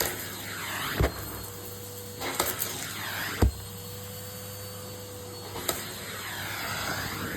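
Henry cylinder vacuum cleaner running with a steady hum and hiss, with two short low thumps, about a second in and a little after three seconds.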